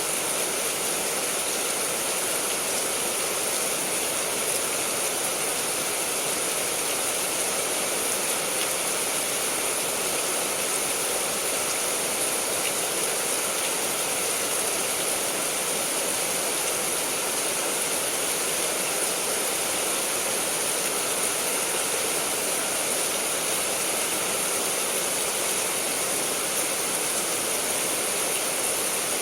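Heavy rain falling steadily: a dense, even hiss that stays at the same level throughout.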